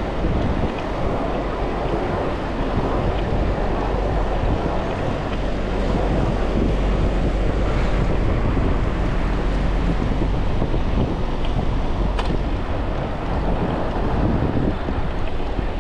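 Steady wind rumble on a chest-mounted camera's microphone while cycling, with road traffic mixed in underneath. A single short click comes about three-quarters of the way through.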